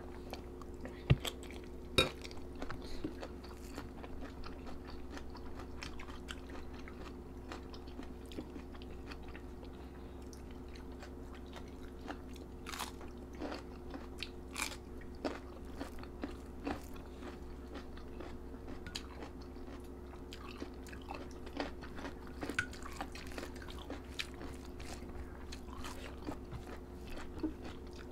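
Close-up chewing and crunching of crisp raw vegetables, with many sharp irregular bites and the loudest crunches about one and two seconds in, over a steady low hum.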